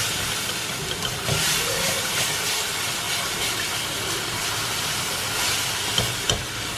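Mashed ripe nendran banana and jaggery cooking in ghee in a pan, sizzling steadily, with a couple of sharp spatula knocks near the end.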